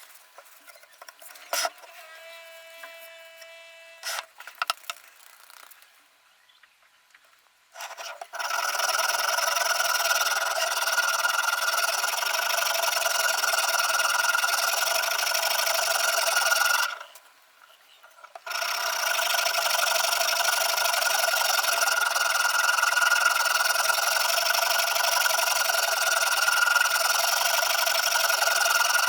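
Sharpening stone of a Ruixin Pro RX-008 guided-rod sharpener drawn along the edge of a VG10 Damascus chef knife, a steady rasp of abrasive on steel. The first several seconds are quiet apart from a few light clicks; the rasping starts about eight seconds in, stops briefly a little past halfway, then goes on again.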